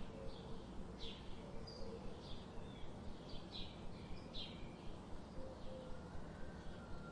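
Small birds chirping, short calls repeating every half second or so, over a steady low background hum of ambient noise.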